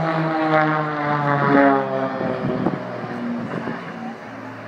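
Propeller aerobatic aircraft engines droning overhead, their pitch sliding steadily lower.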